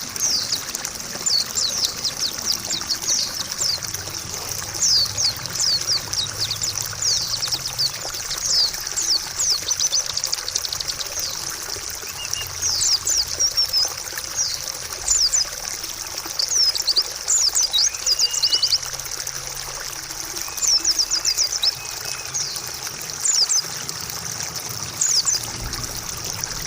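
Trickling water with a white-eye (pleci) singing over it: quick series of high, fast downward chirps, repeated in phrases again and again.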